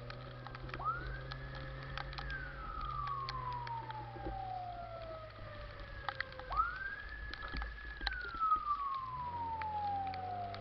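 Fire-engine siren wailing: twice it climbs quickly, holds its top note for about a second, then falls slowly over several seconds. A steady low hum runs underneath, with scattered sharp ticks.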